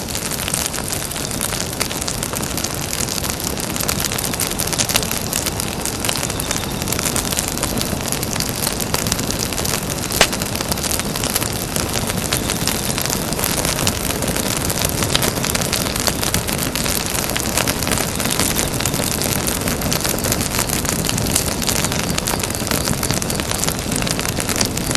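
Campfire burning: a steady hiss of flames with dense, continuous crackling of burning wood and a sharper pop about ten seconds in.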